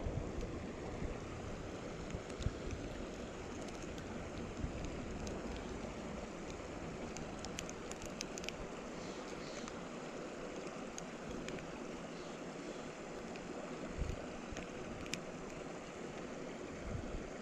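Steady outdoor noise of wind and lake water along the shore, with a few faint clicks and taps.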